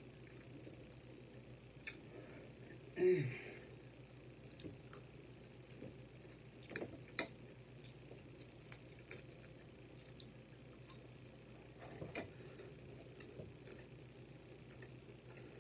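Close-miked eating sounds: chewing with scattered small wet mouth clicks and smacks. About three seconds in, a brief louder vocal sound that falls in pitch, like a short 'mm'.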